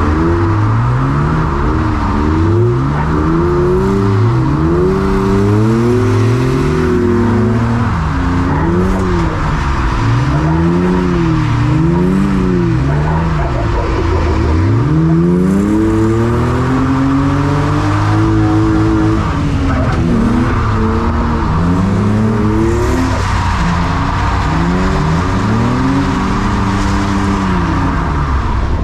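Drift car engine revving up and down over and over through a tandem drift run, pitch swinging high and low every second or two, with tires skidding.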